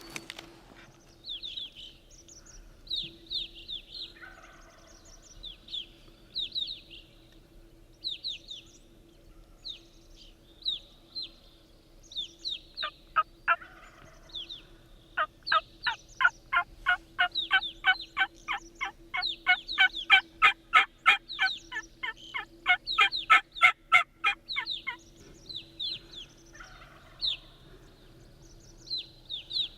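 Wild turkey calling: a few distant gobbles, at about four, thirteen and twenty-seven seconds, and a long fast run of yelps, about three a second, through the middle. Short high songbird chirps repeat throughout.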